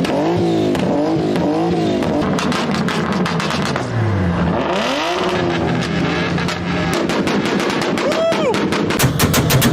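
Car engine revving up and down, then held against a two-step launch limiter, with rapid exhaust pops and bangs that grow denser and faster near the end.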